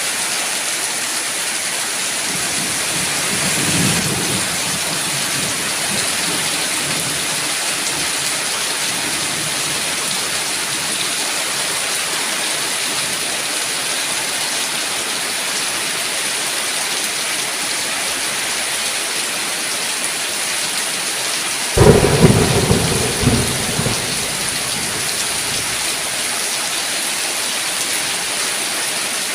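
Steady heavy rain falling, with a low roll of distant thunder about four seconds in. About three quarters of the way through, a sharp, loud thunderclap breaks and rumbles away over a couple of seconds.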